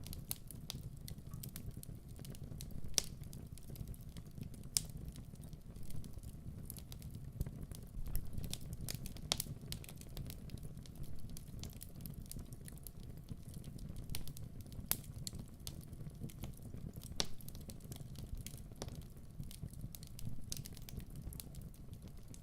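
Wood fire crackling in a fireplace: a steady low rumble of the burning with irregular sharp pops and snaps.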